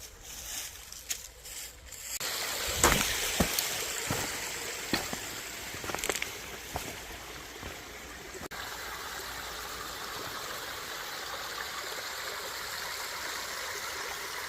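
Creek water running over rocks, a steady rushing wash that gets fuller about two seconds in, with a few sharp knocks over the next several seconds.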